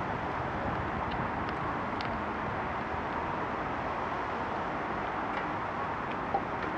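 Steady outdoor background noise with no voices, and a few faint clicks.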